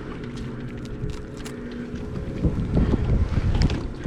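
Wind buffeting the microphone in gusts, over a faint steady low hum and a few small knocks.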